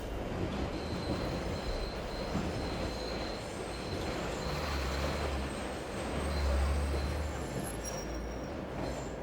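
Train passing with a low rumble that swells about two-thirds of the way through, with thin high squealing tones above it, over a steady noisy hiss.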